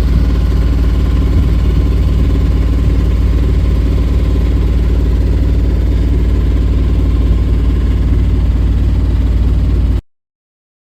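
A boat's engine running steadily at a constant speed, with a strong low rumble, until the sound cuts off abruptly near the end.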